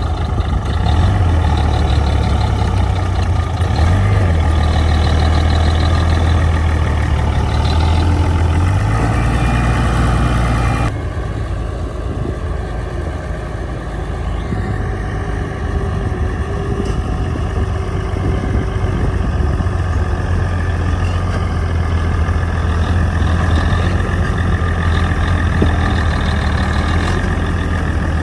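Heavy earth-moving machine's diesel engine running steadily under work, with a strong low drone; the sound changes abruptly and drops a little in level about eleven seconds in.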